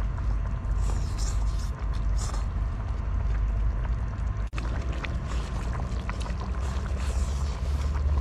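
Wind buffeting the microphone: a steady low rumble with a hiss above it, and a few sharp clicks.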